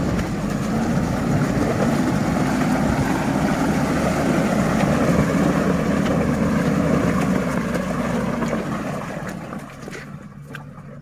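Heavily loaded 4x4 pickup truck engine working hard under load, holding a steady pitch for several seconds, then fading away near the end as the truck moves off.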